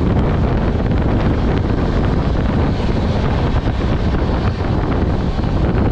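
Wind rushing loudly over the microphone with the steady rumble of a train running at speed, heard from outside the coach.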